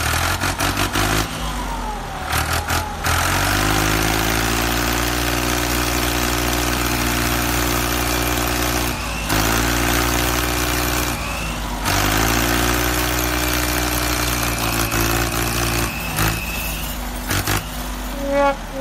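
Truck engine starting with a quick rattle of cranking, then idling steadily. It drops out briefly twice, about nine and twelve seconds in.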